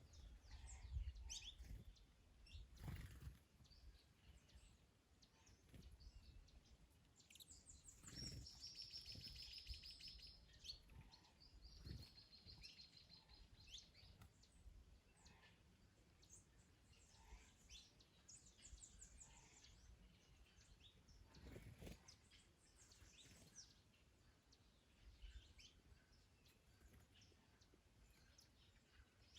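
Small birds chirping and singing faintly, with two rapid high trills near the middle, over a low wind rumble, plus a few soft knocks.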